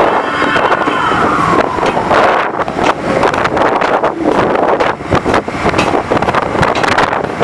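Rushing wind and road noise from a bike travelling fast downhill, with many short knocks from bumps in the road and a faint falling whine about a second in.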